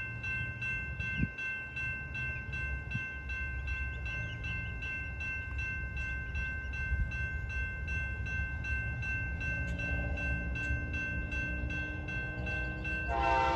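Low, steady rumble of an approaching Norfolk Southern freight train, then the locomotive's air horn comes on suddenly and loudly near the end.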